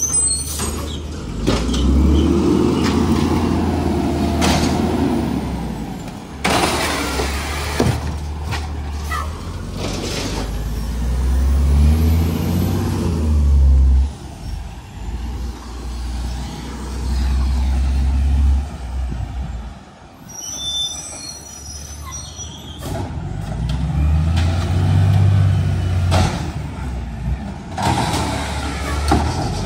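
Garbage truck's diesel engine running and revving up and down, with several sharp hisses of air brakes and a brief high brake squeal about twenty seconds in.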